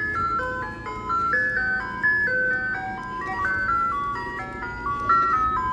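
Ice cream truck jingle: a simple chiming electronic melody playing over the truck's speaker, quick even notes, over a low rumble.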